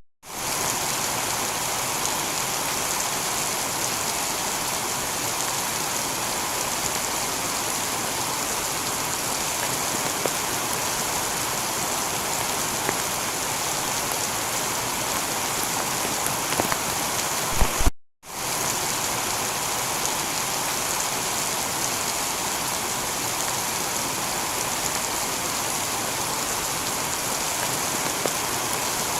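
Heavy rain falling steadily on a tiled roof, an even continuous hiss of drops. The sound cuts out briefly about two-thirds of the way through, then resumes unchanged.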